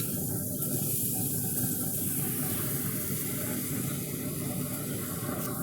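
Steaks sizzling on the hot grates of a Pit Boss pellet grill: a steady hiss.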